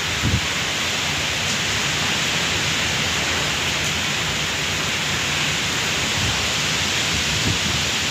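Rain pouring down steadily, an even hiss.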